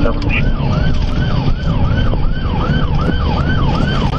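Police car siren on yelp: a quick rising-and-falling wail repeating about three times a second. Under it is the loud engine and road noise of the cruiser in a high-speed pursuit.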